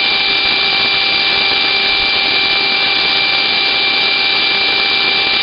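Small Hoover vacuum cleaner running steadily, with its suction restored: a constant motor whine over a loud rush of air.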